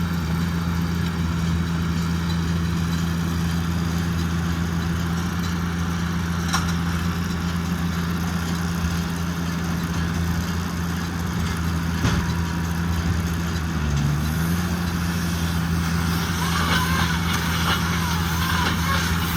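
JCB Fastrac 2170 tractor and Fusion 2 combination baler-wrapper working rice straw, a steady mechanical drone of engine and machinery under load. The hum wavers briefly about two-thirds of the way through.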